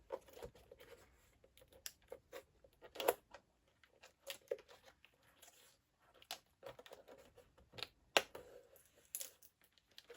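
Irregular small clicks and taps of computer parts being handled and seated, with light rustling of tape or foil between them; the sharpest clicks come about 3 s, 8 s and 9 s in.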